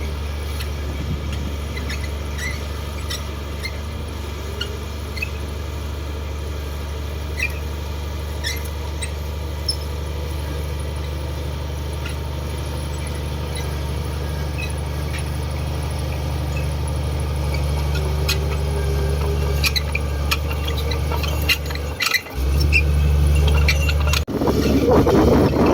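Komatsu D58 bulldozer's diesel engine running steadily, with small squeaks and clinks over it. It dips for a moment near the end, then comes back louder and rougher.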